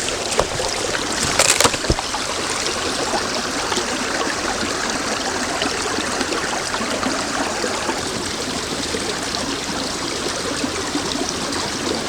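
Flowing stream water, a steady rushing sound, with a few sharp clicks about a second and a half in.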